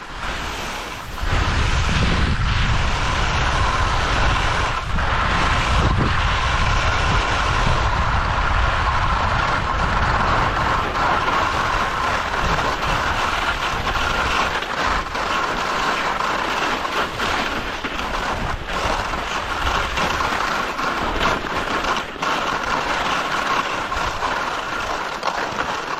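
Skis sliding and scraping on snow during a downhill run, with wind rushing over the microphone.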